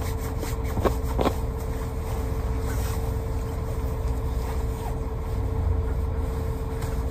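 Steady low rumble of a vehicle's running engine heard from inside the cabin, with a constant steady hum over it. Two brief short sounds come about a second in.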